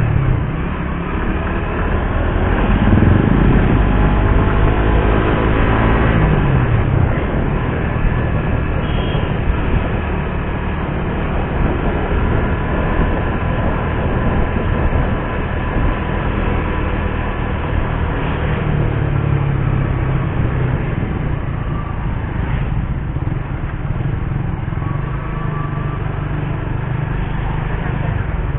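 Suzuki GSX-R150's single-cylinder 150 cc engine heard from the bike while riding. The revs rise and fall in the first few seconds, then the engine runs at a fairly steady pace under wind and road noise.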